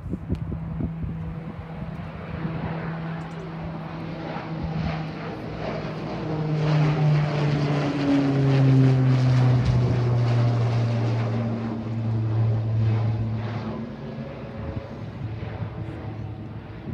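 An airliner passing close by, its engine tone building, dropping in pitch as it goes past about seven to eight seconds in, and fading away afterwards.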